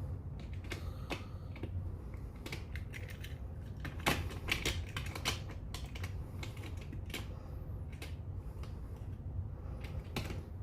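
Irregular small clicks and taps of die-cast toy trucks being handled and pushed into a plastic toy car launcher track, with a denser, louder run of clicks about four to five seconds in. The trucks' wheels are too wide to fit the launcher.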